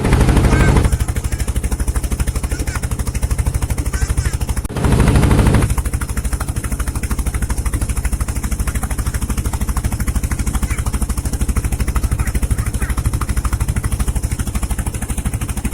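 Small boat engine running steadily under way, with a fast, even chugging beat. Two brief louder rushes of noise cover it, right at the start and about five seconds in.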